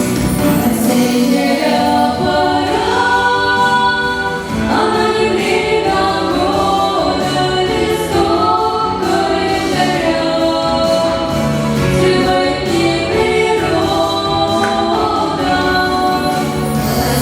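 A family singing together in several voices, with sustained sung phrases that move from note to note.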